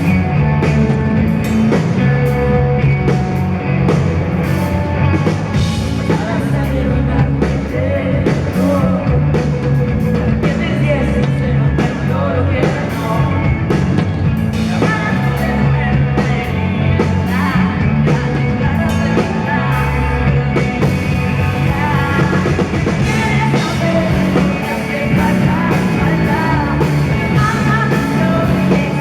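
Rock band playing live, with a drum kit and a woman singing over the band.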